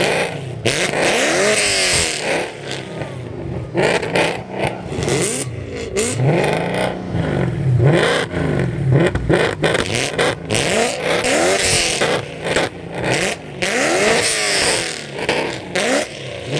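A high-performance car engine revved over and over through its exhaust, its pitch rising and falling again and again, with sharp pops between the revs.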